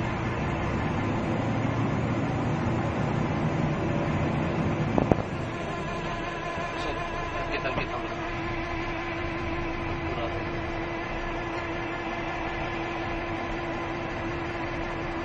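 Heavy-duty truck running steadily, with a sharp knock about five seconds in, after which a steady hum continues under the engine and road noise.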